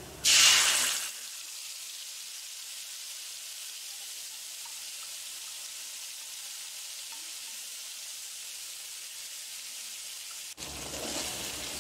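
Curd-based spice paste poured into hot oil in a kadhai: a loud burst of sizzling as it hits the oil, settling within a second into a steady frying hiss.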